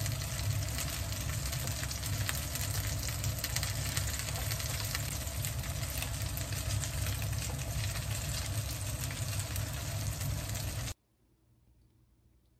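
Hanpen patties frying in oil in a frying pan, a steady sizzle full of small crackles, which cuts off abruptly near the end.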